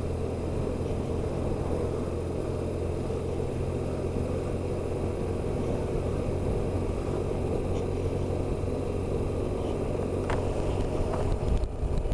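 BMW R1150RT's boxer-twin engine running steadily under way, with wind and road noise on the helmet microphone.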